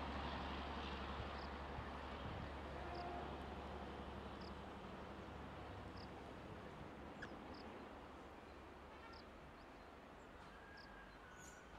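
Rumble of a passenger train's coaches on the rails, fading away as the train recedes. Over it, a short high chirp repeats steadily about every second and a half.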